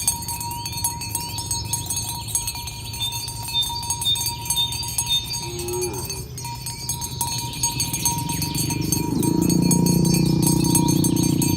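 A herd of cattle with cowbells clinking steadily. A short low call comes about halfway through, and a long, loud low moo follows about two-thirds of the way in.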